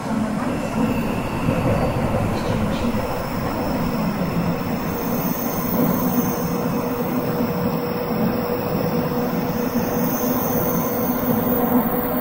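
Tsukuba Express TX-1000 series electric train heard from inside the car while running: a steady rumble of wheels on rail with a low, even hum. A faint high squeal comes in about five seconds in.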